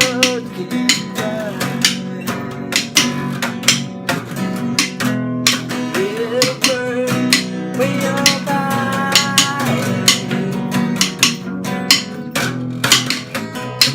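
Acoustic guitar strummed in a steady rhythm over sustained low chords, with a melody line that slides up into held notes about six seconds in and again near the middle.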